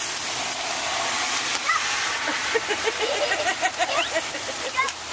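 Heavy rain pouring down, a steady hiss of falling and running water. From about halfway in, a rapid string of short high-pitched calls or squeals sounds over it.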